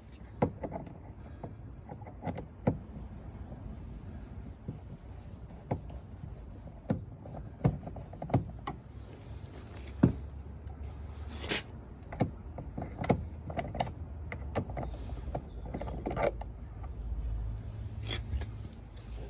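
Small pry bar and hands working behind a car door card: irregular clicks, knocks and light scraping of tool and trim, with a low rumble now and then.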